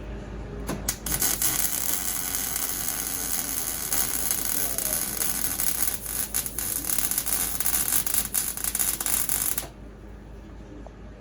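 MIG welder arc crackling steadily while tack-welding chromoly tubing, starting about a second in and running for some eight seconds before cutting off suddenly.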